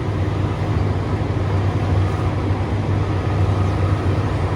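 Excavator's diesel engine running steadily under load, a continuous low drone.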